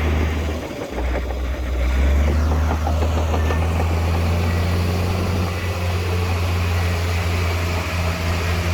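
Heavy earthmoving machine's diesel engine running with a deep, steady hum. It dips briefly just under a second in and picks up again about two seconds in.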